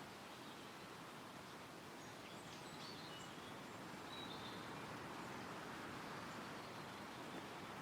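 Steady wind rustling through trees, swelling slightly after the middle, with a few faint, brief bird chirps and a short whistle between about two and four and a half seconds in.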